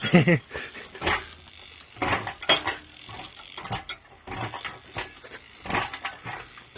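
A short vocal sound at the start, then scattered light knocks and clanks, as of metal parts and tools being handled.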